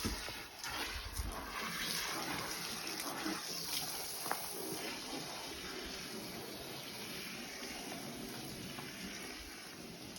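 Water running steadily, a continuous rushing hiss that fades slightly toward the end, with a few faint clicks.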